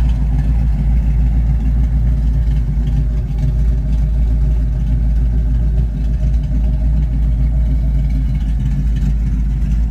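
1972 Ford Mustang Mach 1's V8, fitted with a Crane 2040 cam, running steadily with a deep low rumble through a single 3-inch exhaust and a Black Widow Race Venom muffler. The engine note holds even, with no revving.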